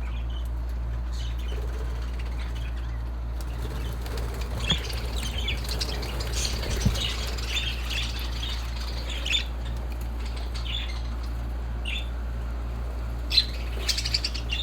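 Caged budgerigars giving scattered short, high chirps and squawks, with a quick run of sharp clicks near the end, over a steady low hum.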